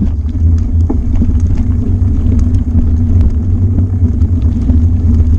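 Steady low rumble of a bicycle riding a lumpy, bumpy canal towpath, picked up by a GoPro Hero 4 Session mounted on the handlebars: wind on the microphone and jolting of the bike, with scattered light clicks.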